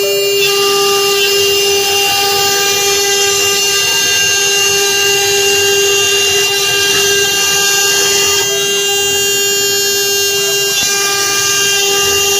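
CNC router spindle running with a steady high whine while the bit engraves wood, with a hiss of cutting that grows about half a second in, eases for a couple of seconds near the end, then picks up again.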